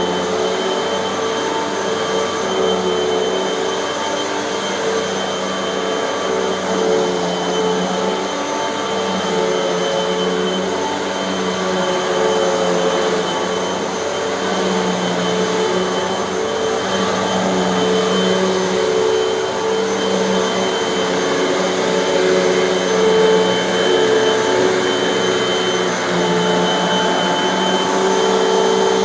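Hoover bagless vacuum cleaner running steadily on carpet, a motor whine over a low hum that swells and dips every second or two as it is pushed back and forth.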